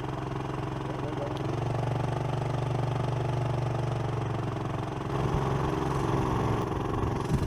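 A small engine running steadily at low speed. Its note grows a little louder after about a second and a half and shifts around five seconds in.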